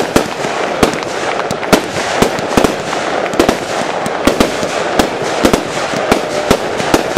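Fireworks display: a rapid, irregular run of sharp bangs from bursting shells, about two a second, over a continuous dense hiss and crackle from rising trails and burning stars.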